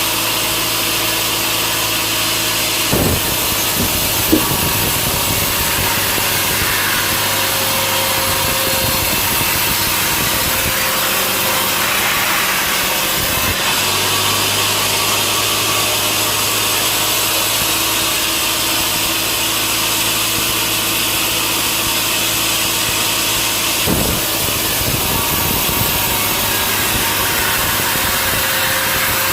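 Sawmill saw running steadily as it cuts through a log, with a continuous motor hum and the hiss of the blade in the wood. A few short knocks about three and four seconds in and again near the end.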